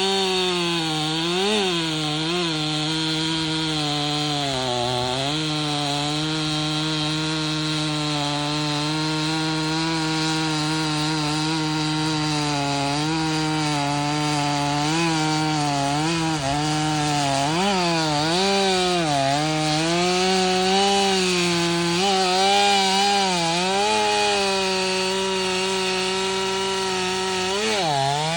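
Stihl 500i two-stroke chainsaw with a 32-inch bar cutting through wood at high revs, its engine note sagging under load and picking back up again and again, most often in the second half.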